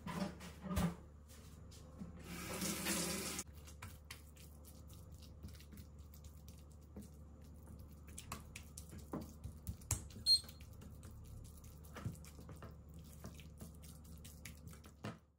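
Water running from a tap for about a second, then scattered clicks and knocks, with a short high beep near the middle. The sound cuts off suddenly near the end.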